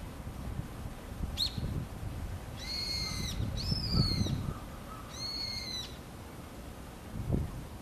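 A bird calling: one short sharp call about a second and a half in, then three drawn-out, nasal calls of about two-thirds of a second each, with a low rumble beneath.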